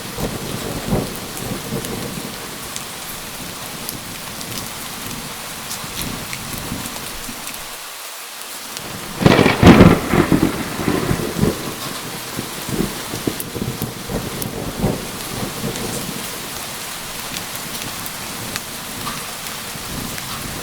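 Steady rain falling, with thunder rumbling through it. About nine seconds in comes a loud thunderclap that rolls away over the next several seconds.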